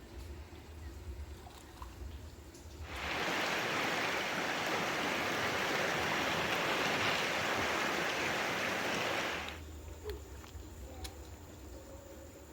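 A steady rush of running water that starts about three seconds in and stops abruptly about six and a half seconds later.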